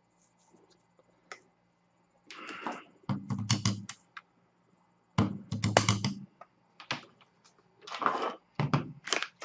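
Three short clusters of quick clicks and knocks from the KRUPS F203 blade coffee grinder and its parts being handled and tapped, a couple of seconds apart.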